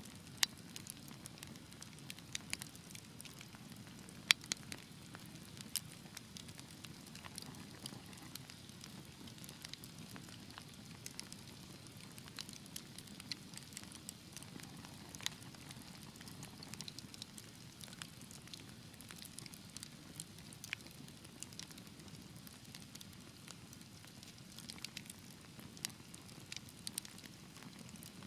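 Wood fire in a fireplace burning with a steady soft rush and frequent irregular crackles, with a couple of louder sharp pops in the first few seconds.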